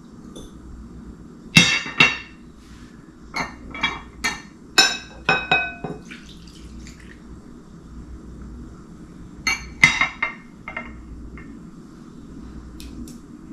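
A utensil clinking and knocking against a bowl while stirring a liquid soy sauce and brown sugar marinade until the sugar dissolves. The clinks come in three bunches, some ringing briefly, with a couple of faint ticks near the end.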